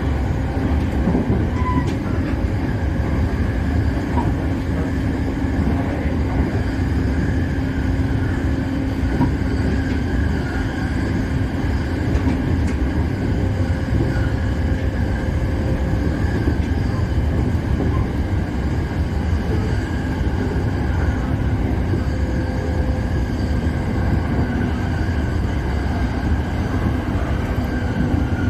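JR Musashino Line electric train running steadily, heard from inside the front car: an even rumble of wheels on the rails with a faint steady whine.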